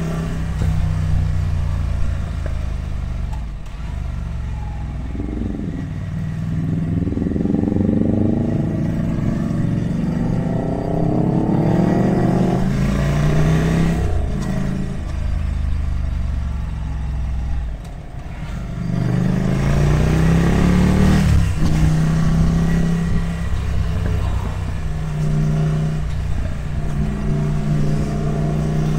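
Ducati Monster 797+'s air-cooled L-twin engine running under way: it climbs in pitch twice under acceleration, drops back briefly between, then holds a steady pitch for the last several seconds.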